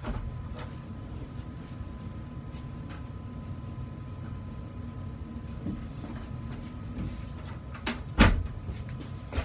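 Hand tools being fetched and handled at a workbench: faint clicks over a steady low hum, then one loud knock about eight seconds in and a lighter one near the end.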